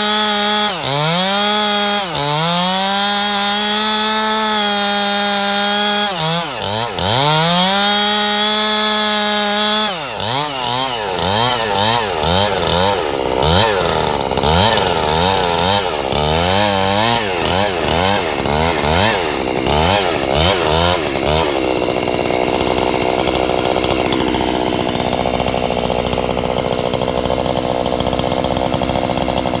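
Two-stroke chainsaw ripping a log lengthwise. It runs at a high, steady pitch that dips sharply a few times as the chain bogs in the cut. From about ten seconds in, the pitch wavers quickly up and down, then runs evenly from about 22 seconds on.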